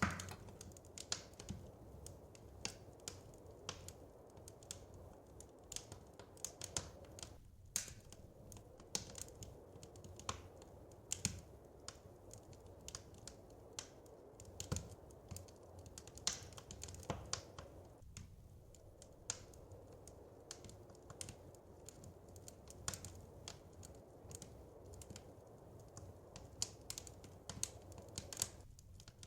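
Wood fire crackling in a fireplace: irregular sharp pops and snaps, some much louder than others, over a steady low hiss.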